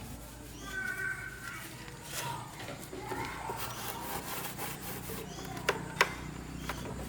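Repeated scraping strokes, like hand work on a part, with two sharp clicks near the end.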